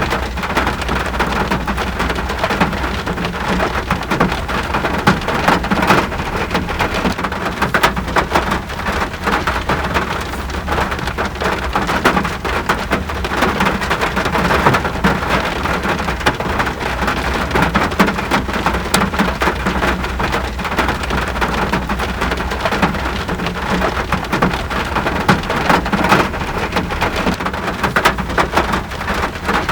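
Steady rain falling, a dense, even patter of drops hitting surfaces, with a constant low rumble underneath.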